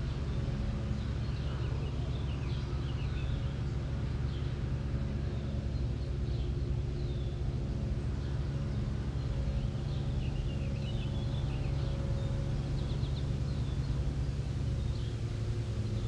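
Small birds chirping and twittering in short scattered calls over a steady low hum.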